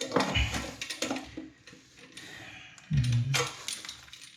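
Metal plumbing fittings and tools being handled, clinking and rattling for the first second and a half, then quieter clatter, with a brief low hum about three seconds in.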